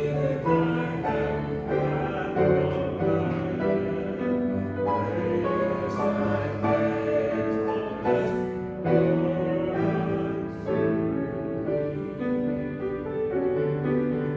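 Music: voices singing a slow song over instrumental accompaniment, held chords changing about once a second.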